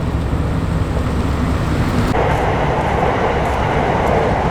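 Engines of modified cars idling with a low rumble. About two seconds in, the sound changes abruptly to a denser, higher exhaust noise.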